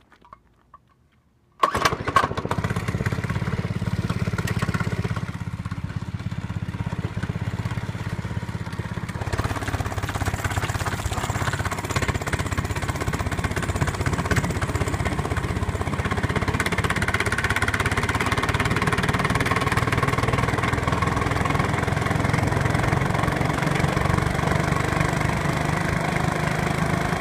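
A mini bike's small engine starts up suddenly about a second and a half in, then runs steadily. It runs harder and brighter from about nine seconds in.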